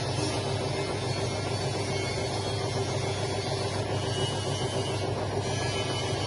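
Drum-type chicken feather plucking machine running steadily, its electric motor giving a constant hum.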